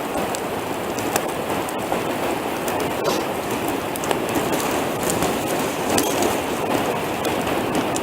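Campfire of wet logs burning, crackling with many small sharp pops over a steady hiss.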